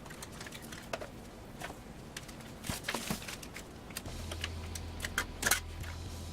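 Scattered light clicks and taps of small hard parts being handled, a few louder clacks among them. A low steady hum comes in about four seconds in.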